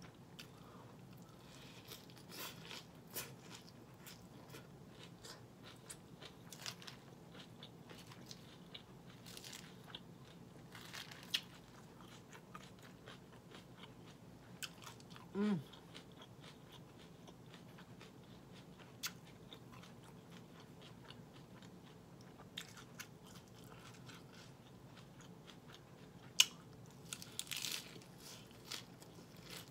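Close-up crunching and chewing of crisp romaine lettuce in a Caesar salad, with scattered short bites. A brief hum about halfway through, and a sharp click near the end followed by a burst of crunching.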